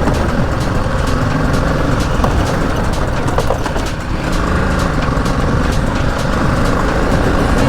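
BMW G 310 GS's single-cylinder engine running as the motorcycle is ridden, with scattered light ticks and a brief dip in level about four seconds in.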